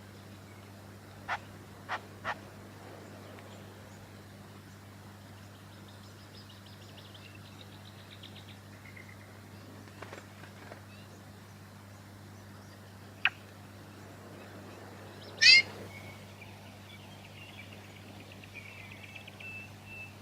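White-fronted honeyeater calling: a few short, sharp chip notes, faint rapid trills, then a single loud, sharp call followed by a warbling trill. A faint steady low hum lies underneath.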